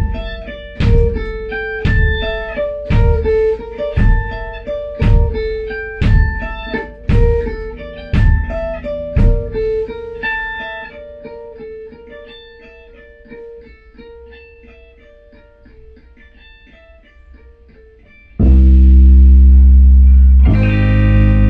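Guitar playing in a band rehearsal: sharp picked strokes about once a second over a held ringing note, thinning out into quieter picking. Near the end a loud sustained low chord comes in suddenly and changes once.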